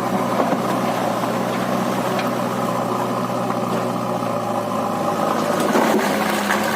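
Diesel engine of a JCB backhoe loader running steadily, its note shifting about five and a half seconds in.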